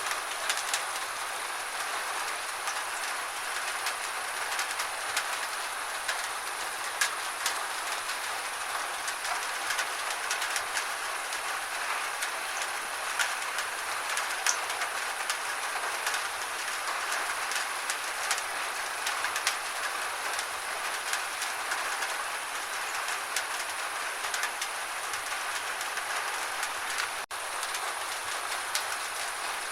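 Gentle rain falling steadily: an even hiss thick with small, sharp drop hits. It drops out for an instant near the end.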